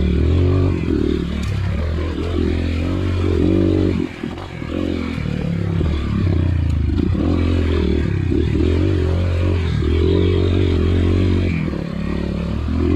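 Off-road trail motorcycle engine revving up and down as it is ridden, with a short dip in revs about four seconds in.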